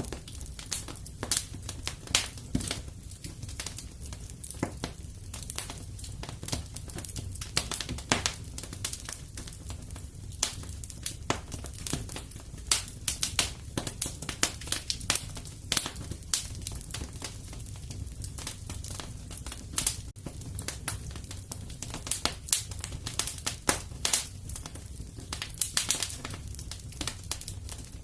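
Wood fire burning steadily, with frequent sharp crackles and pops over a low, steady rumble of flame.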